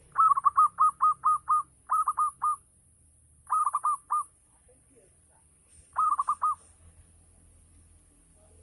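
Local Javanese zebra dove (perkutut) cooing: four quick phrases of short, repeated hooting notes, the first about seven notes long and the rest about four, with pauses between them.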